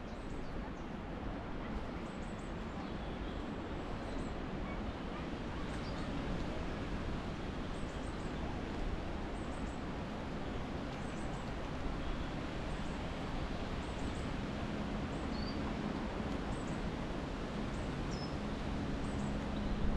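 Steady wind noise, with small birds chirping faintly and repeatedly in the background. A low steady hum comes in near the end.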